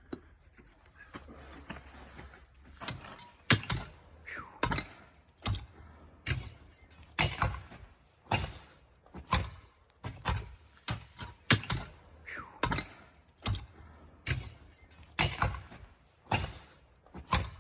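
Repeated strikes of a hand tool worked into hard ground during landscaping, about one a second, with the odd scrape.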